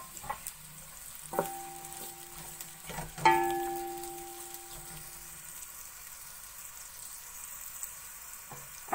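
Sliced onions sizzling in hot oil in a metal cooking pot as they are stirred with a spoon. The spoon knocks against the pot twice, about a second and a half and about three seconds in, setting the pot ringing; the second knock is the loudest and rings for about two seconds.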